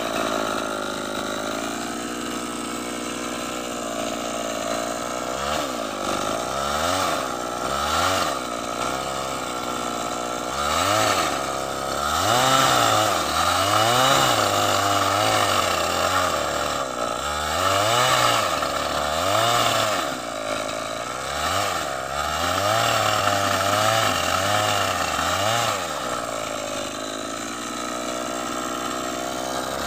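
Chainsaw cutting wood, its engine pitch rising and falling again and again as the throttle is opened and eased through the cut.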